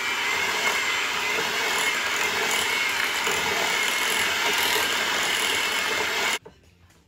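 Electric hand mixer running at medium speed, its beaters creaming cream cheese and butter: a steady motor whine that stops suddenly near the end.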